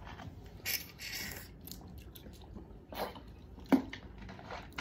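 Close-up eating sounds from a seafood meal: wet chewing and lip-smacking, with small clicks and one sharper click a little before the end.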